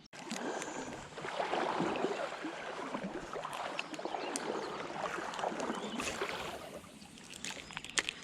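Creek water sloshing and splashing in uneven surges, easing off near the end.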